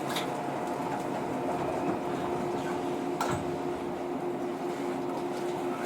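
Steady electrical hum in the cabin of a JR 115-series electric train stopped at a station just before departure, with two level tones over a soft noise. A short click right at the start and a sharper knock about three seconds in.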